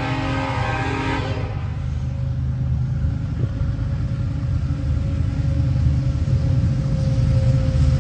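Horn of an approaching freight train led by BNSF diesel locomotives, a chord of several steady tones that ends about a second and a half in, followed by the low rumble of the locomotives growing slowly louder as the train nears.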